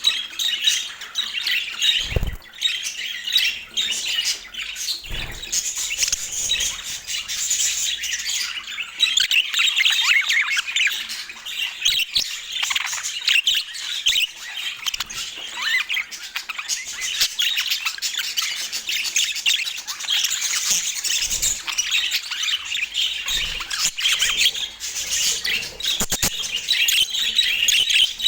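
Budgerigars chattering continuously, a dense mix of rapid chirps, warbles and squawks. Two dull thumps come in the first few seconds.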